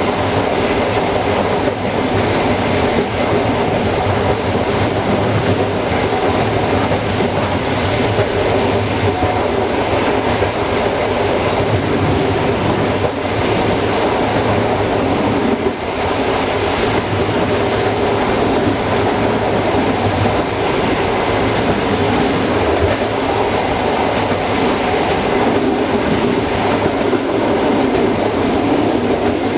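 Passenger train running along jointed track: a steady rumble of the carriage wheels on the rails, with the clack of the wheels passing over rail joints.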